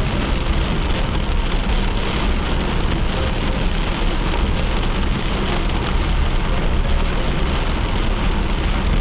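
Steady rain falling on a surface, with many small drop ticks, over the low rumble of a car driving on wet road.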